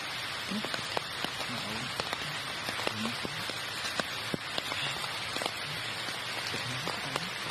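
Steady crackling hiss dotted with many sharp clicks, as of rain falling on leaf litter, with faint voices in the background.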